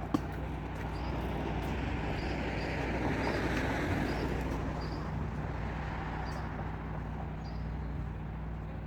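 A car passes by, its noise swelling to a peak about three to four seconds in and then fading, over a steady low hum. A single sharp click right at the start.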